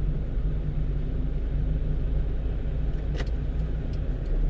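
Steady engine and road noise inside the cab of a 1-ton truck cruising along a road: an even low rumble with a faint hiss of tyres and air above it.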